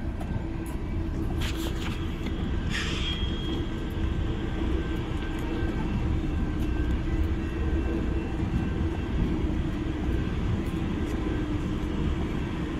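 Freight train rolling past, a steady low rumble of its rail cars, with a short high-pitched screech about three seconds in.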